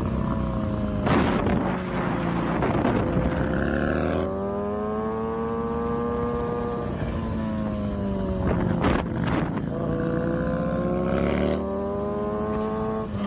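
Motorcycle engine running at high revs, its pitch slowly sagging and rising again twice, with two stretches of rushing noise over it.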